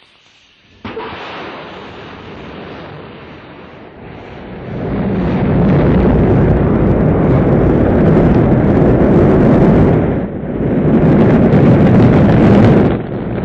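Rocket launch: the engines' noise starts suddenly about a second in and builds, growing much louder about four seconds later into a loud, deep, steady rumble, with two brief dips near the end.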